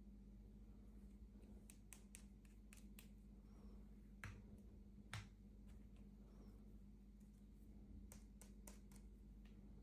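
Near silence over a faint steady hum, broken by scattered light clicks and taps of small items being handled, the two clearest about four and five seconds in.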